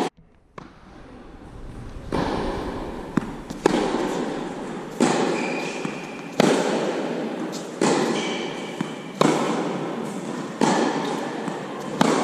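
Tennis balls struck by rackets in a steady rally, a hit about every second and a half, each ringing on in a reverberant hall, with a few short shoe squeaks on the court.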